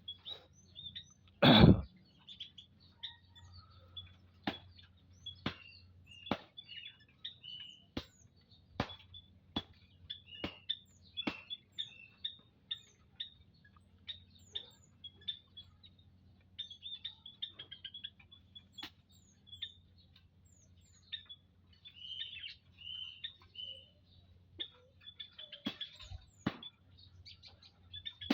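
A family of prenjak lumut in an aviary chirping, with many short, high call notes throughout. A loud knock comes about one and a half seconds in, sharp clicks recur about once a second, and a faint low hum runs underneath.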